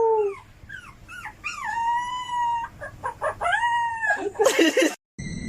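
Dog howling: a series of long, wavering howls broken by shorter rising calls, ending in a rough burst that cuts off suddenly about five seconds in.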